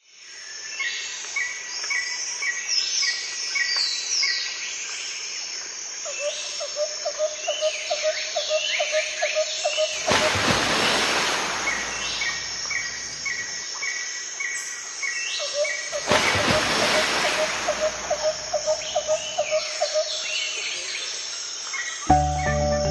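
Several birds singing and calling at once, with repeated chirp series and a lower trill. Two rushes of noise, each lasting about two seconds, swell up around ten and sixteen seconds in. Music begins just before the end.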